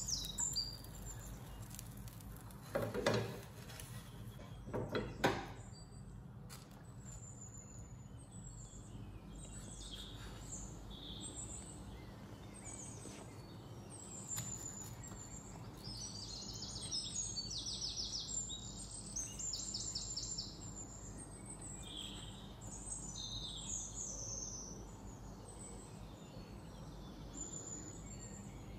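Birds chirping and twittering in the background, with short high calls throughout and quick, rapidly repeated trills around the middle. Two louder knocks stand out about three and five seconds in.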